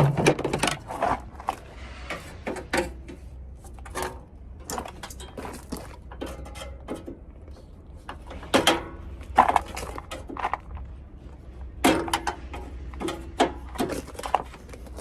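Irregular metal clanks and knocks of hand tools working on a car's steel body panel, over a low steady hum.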